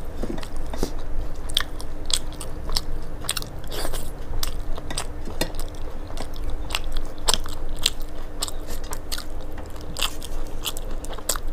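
Close-miked chewing of a mouthful of food, with wet clicks and smacks of the lips and tongue a few times a second. A faint steady hum sits underneath.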